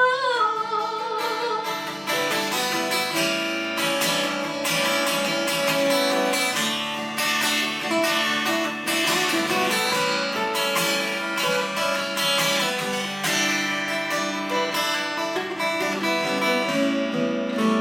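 Acoustic guitar played alone, strummed and picked chords, as an instrumental break in a live song. A sung note trails off right at the start.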